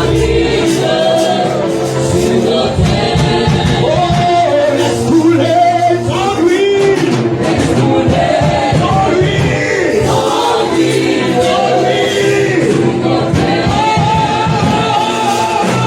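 Live gospel worship music: singers' voices over a band with a steady beat.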